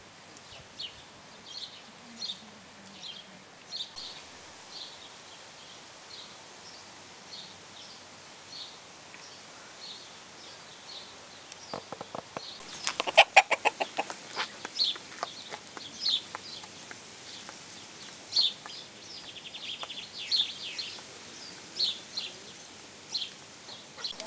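Short high bird calls repeating a little more than once a second. About twelve seconds in comes a louder burst of rapid clicking or clattering that lasts about two seconds.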